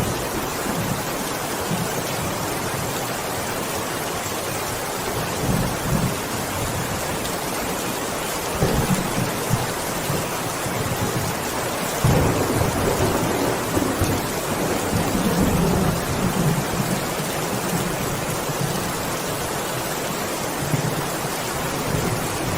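Heavy rain falling steadily, a dense even hiss, with bouts of low rumbling swelling up about a third of the way in and again around the middle.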